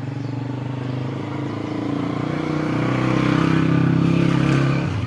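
A motor vehicle engine running, swelling louder through the middle and dropping off suddenly near the end.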